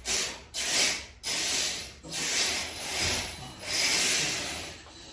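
Power screwdriver driving 2-inch screws into a shelf, in about six short bursts with brief pauses between them.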